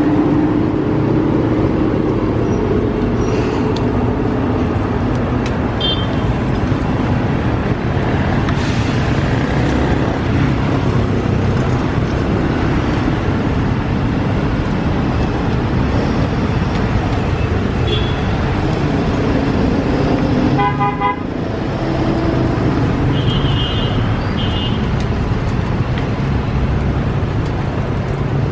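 Steady road-traffic and engine noise with short vehicle horn toots several times, including a quick run of beeps about three-quarters of the way through.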